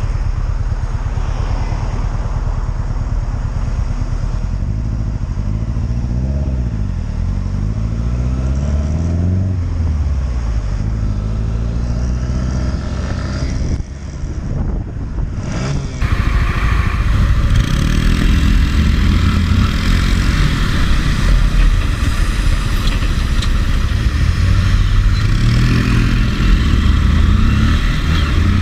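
A 125cc motorcycle engine heard from the rider's camera, its pitch rising and falling as it accelerates and changes gear. The sound drops briefly about two-thirds of the way through, then changes abruptly as a different ride cuts in.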